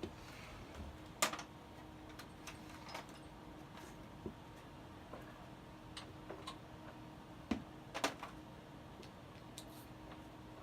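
Scattered light clicks and taps at irregular intervals, the sharpest about a second in and two close together around eight seconds, over a faint steady hum.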